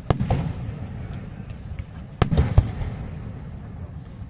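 Aerial fireworks going off. A sharp bang comes right at the start, then two more bangs in quick succession a little past halfway. Each is followed by a low rumbling echo, with light crackling in between.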